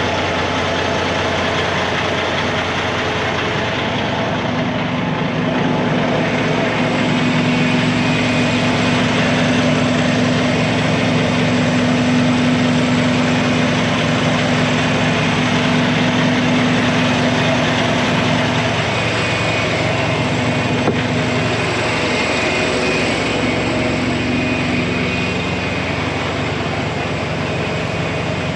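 Vehicle engine running steadily: a constant drone with a low hum, whose pitch shifts about twenty seconds in.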